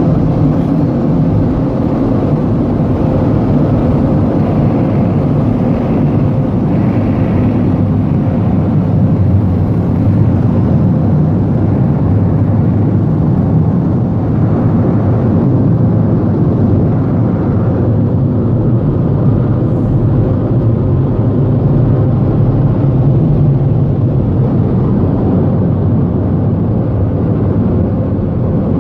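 Car wash air-dryer blowers running, a loud, steady rush of air over the car with a faint steady hum, heard from inside the car.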